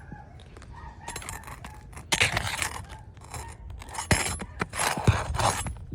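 Scraping and crunching from work on a roof shingle, in rough bursts with a few sharp knocks, loudest from about two seconds in.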